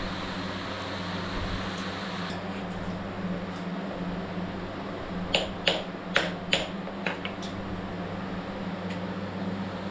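Six or so sharp metallic clinks in a quick, uneven run over about two seconds, starting about halfway through: a wrench knocking on the engine's bolts and iron. A steady shop-fan hum runs underneath.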